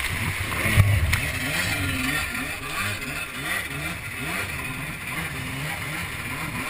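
Jet ski engine revving up and down again and again, its pitch rising and falling in quick swells, over a steady hiss of rushing water and wind.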